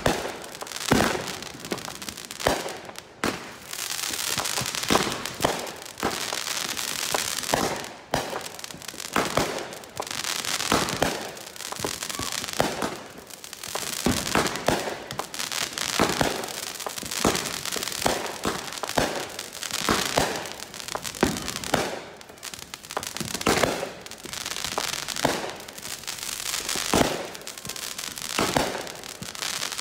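500-gram consumer fireworks cake firing a long run of shots, with sharp reports about one or two a second and crackling and hissing between them as the shells burst overhead.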